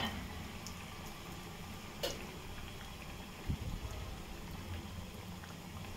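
Sweet corn cutlets frying in hot oil: a low, steady sizzle. There are a few light knocks, the sharpest right at the start and a soft low thump about halfway through.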